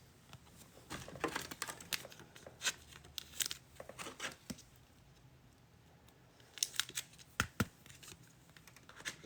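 Trading-card packaging and cards being handled: faint crinkling and tearing in scattered short bursts, with a lull near the middle.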